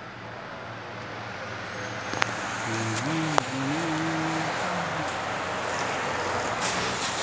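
Toyota Land Cruiser engine running, a steady noise that grows louder over the first couple of seconds and then holds, with two sharp clicks and a short wavering voice near the middle.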